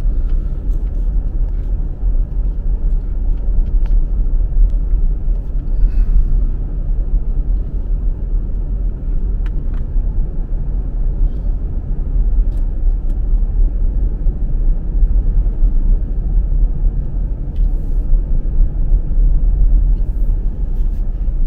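Loud, steady low rumbling noise with an uneven, buffeting level, and a few faint clicks.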